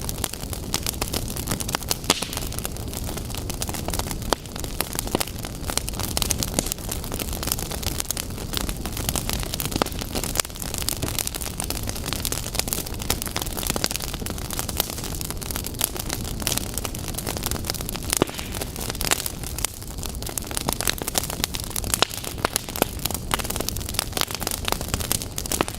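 Wood fire burning in a fireplace, a steady low rush with frequent sharp crackles and pops throughout.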